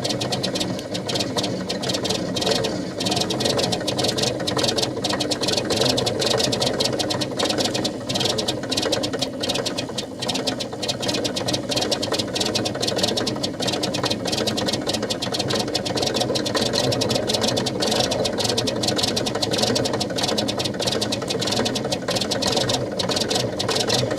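Old diesel engine running steadily just after a cold start, with a fast, even clatter.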